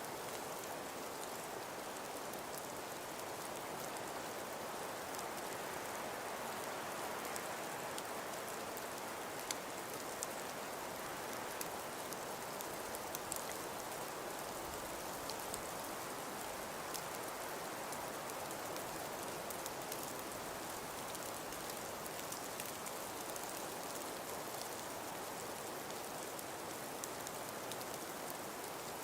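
Steady hiss of wind-blown snowfall, with many faint, scattered ticks of snow grains striking a surface.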